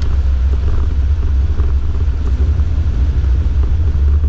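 Steady low rumble of a 4x4 driving through snow, heard from inside the cabin.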